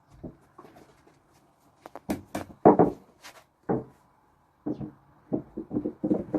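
Knocks on the wooden slab parts of a nail-less live-edge TV stand as it is knocked apart: a few loud separate knocks about two seconds in, then a quicker run of knocks in the last couple of seconds.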